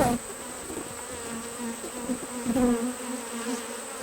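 Honeybees buzzing around an open hive: a steady, slightly wavering drone, with a couple of brief knocks.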